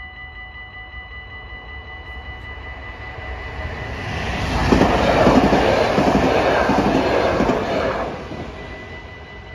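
A Mat'54 electric multiple unit passes over a level crossing. It grows louder from about three seconds in, is loudest for about three seconds, and fades away after about eight seconds. The crossing's warning bells ring steadily underneath.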